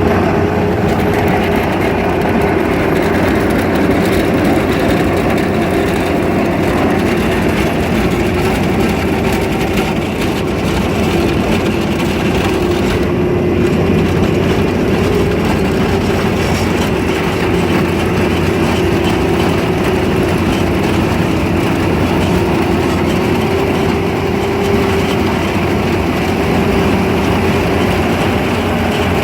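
Case SR270 skid steer loader's diesel engine and hydraulics running steadily under load, with a prominent whine that wavers slightly in pitch over a dense rumble.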